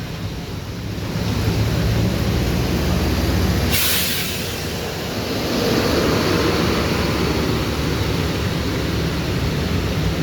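Large intercity bus's diesel engine running as the bus pulls out, with a short sharp hiss of air, typical of the air brakes releasing, about four seconds in.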